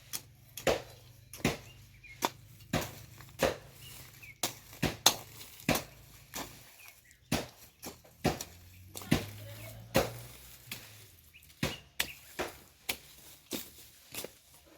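Garden soil being tilled by hand: a tool chops into the earth over and over, about one stroke every 0.7 seconds, with short pauses.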